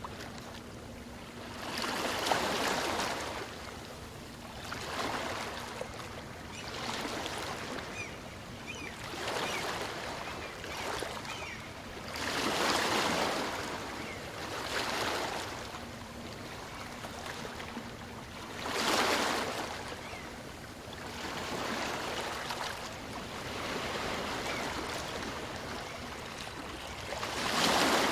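Small waves of a calm sea breaking and washing up a beach, one after another. The surf noise swells and ebbs every two to four seconds, with some waves noticeably louder than others.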